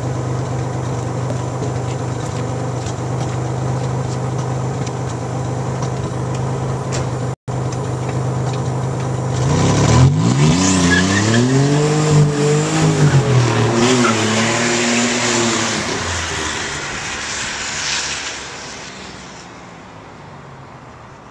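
Nissan 300ZX Turbo (Z31) turbocharged V6 idling steadily, then revving hard and launching away about ten seconds in, its engine note climbing and dipping as it pulls off with the wheels spinning on wet pavement. The sound fades away near the end as the car drives off.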